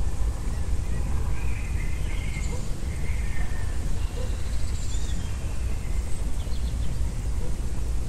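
Songbirds chirping and whistling faintly over a steady low rumble.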